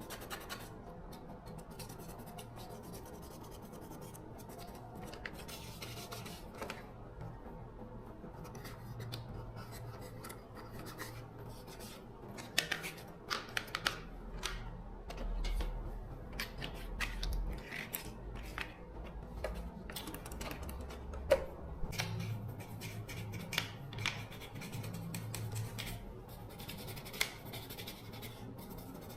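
Scraping, rubbing and scattered sharp clicks from hands working on small parts. Sparse at first, the sounds grow busier about halfway through, with one louder click later on.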